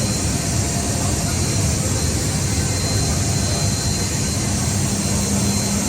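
Steady jet-engine noise from an aircraft, with a thin high whine over it and no rise or fall in level.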